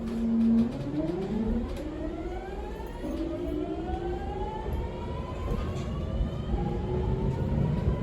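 Mitsubishi GTO-thyristor VVVF inverter traction motors of a 209 series 3100 subseries electric train whining as the train accelerates. A steady low tone gives way about half a second in to several tones rising together, with a shift in the pattern about three seconds in. Wheel and rail rumble runs underneath.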